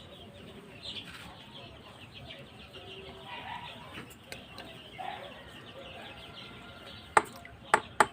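A flock of young Sonali chicks peeping and chirping softly, with three sharp knocks near the end.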